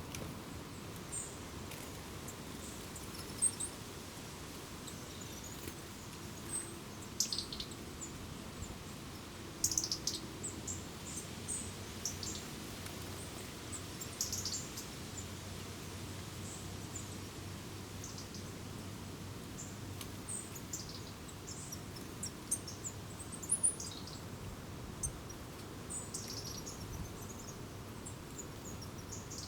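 Wild songbirds chirping: short, high calls at irregular intervals over a steady background hiss.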